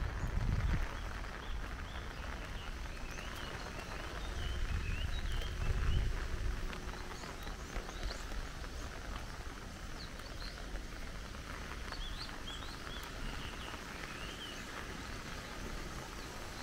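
Small birds calling in short, scattered chirps over a steady outdoor hiss, with a low rumble about five seconds in.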